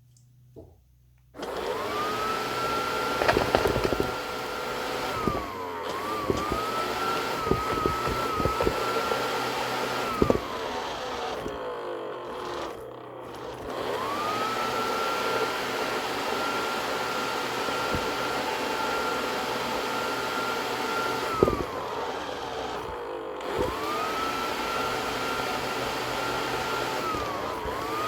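Ecovacs Deebot Slim2 robot vacuum running after a brief near-silence at the start. Its motor whine rises to a steady high pitch and falls away three times, over a steady rushing noise scattered with sharp clicks and knocks.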